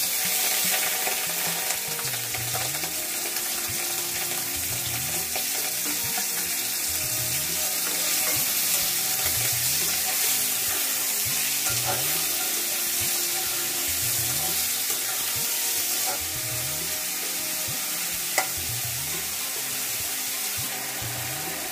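Prawns frying in hot oil in a metal kadai. The sizzle starts suddenly as they go into the pan and stays loud and steady. A steel spatula scrapes and stirs them round the pan in repeated strokes.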